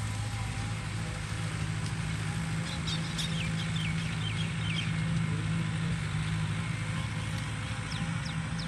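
Tractor engine running steadily. A bird calls a quick run of short falling chirps about three seconds in, and again near the end.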